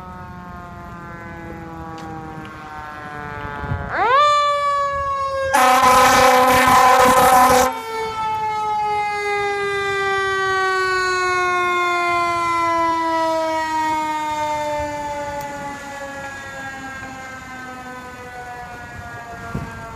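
Fire engine responding with its siren: a falling wail, a fast wind-up about four seconds in, then a loud horn blast of about two seconds, after which the siren winds slowly down in pitch over some ten seconds and fades.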